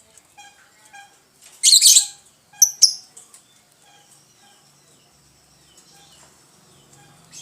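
Lovebirds calling: a loud harsh burst a little under two seconds in, two sharp shrill calls just after, then faint scattered chirping.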